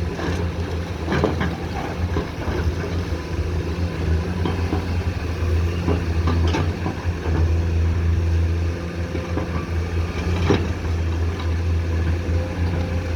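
Komatsu PC210 hydraulic excavator's diesel engine running steadily, with a few short knocks and scrapes from the bucket working, the loudest about ten and a half seconds in.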